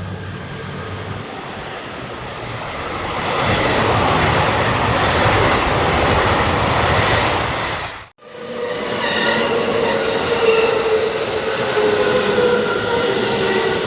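A train running through the station, its rumbling noise building and staying loud for several seconds. After an abrupt cut about eight seconds in, a train's running noise returns with steady high squealing tones over it, typical of wheels or brakes.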